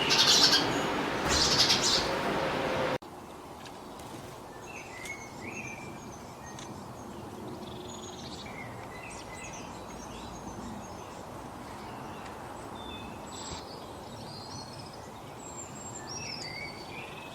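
Small birds chirping and calling in short whistled notes that slide up and down, over a steady background hiss. About three seconds in the sound cuts abruptly from a louder, busier stretch to fainter calls.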